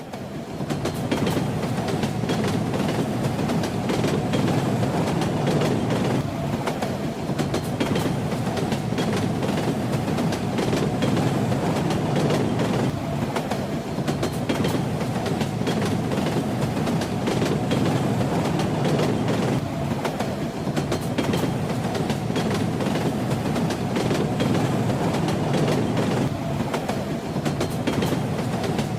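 Train running steadily: a continuous low rumble with the wheels clacking over the rail joints.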